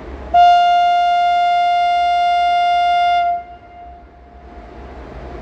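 Locomotive horn of a CFR class 40 electric locomotive sounding one long, steady, single-tone blast of about three seconds, then cutting off, typical of a departure signal.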